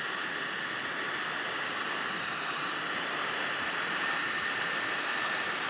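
Heat gun blowing steadily with a faint motor whine, shrinking heat-shrink tubing over a wire label.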